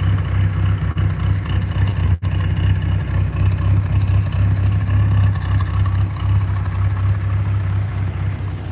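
An engine runs steadily at constant speed with a loud, even low hum, cutting out for a split second about two seconds in.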